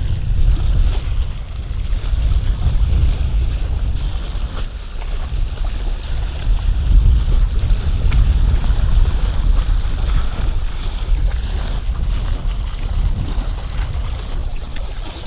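Wind buffeting the microphone: a steady, loud low rumble that rises and falls in gusts.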